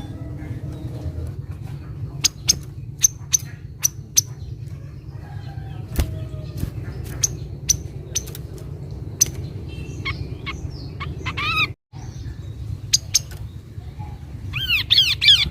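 Kaso-kaso bird calls: scattered sharp, high chip notes, a quick run of arching notes, and a denser burst of arching calls near the end, over a steady low rumble. The audio drops out briefly about twelve seconds in.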